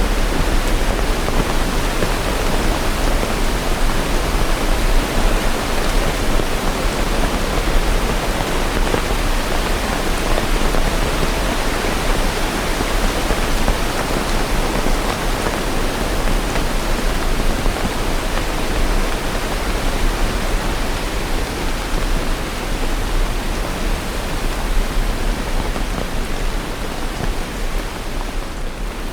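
Steady heavy rain: a dense, even hiss with a low rumble underneath and no separate drops or thunder standing out.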